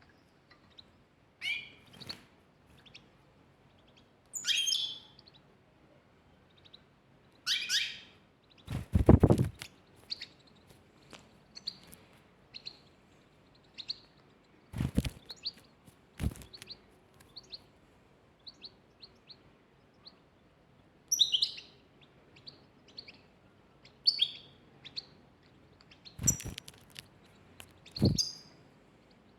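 Pet birds chirping, with many short high chirps and a few louder downward-sliding calls. Several loud thumps break in, the loudest about nine seconds in.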